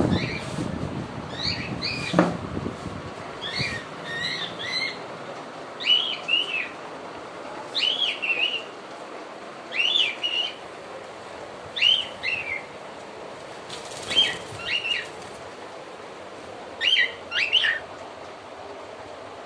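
A cage bird calling in short two- or three-note chirping phrases, repeated about every two seconds, with a low rustling in the first few seconds; the calls stop near the end.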